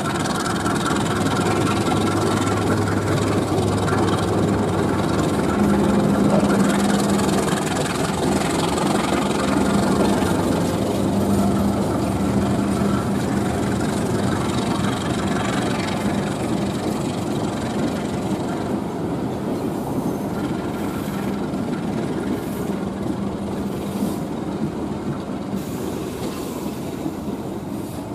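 A long diesel-hauled passenger train rolling away along the track, its wheels clacking over the rail joints under a steady engine hum. It slowly fades as the train recedes.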